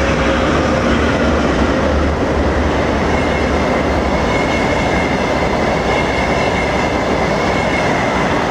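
Passenger train of a TEP70BS diesel locomotive hauling an ES2G Lastochka trainset running past at speed: a loud steady rush of wheels on rail over a low hum, with a thin high wheel squeal coming in about three seconds in.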